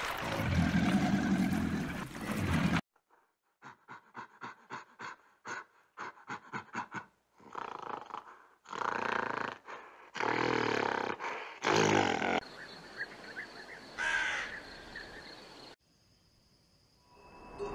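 A crocodile's low growl that cuts off sharply about three seconds in. Then a silverback gorilla's calls: a run of short pulses coming quicker and quicker, followed by three loud calls of about a second each. A fainter call comes about fourteen seconds in, before near silence.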